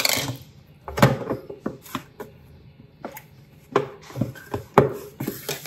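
Irregular clacks and knocks of kitchenware being handled: a plastic food container and a stainless steel steamer pot knocked and set down on the counter, about nine sharp hits in a few seconds.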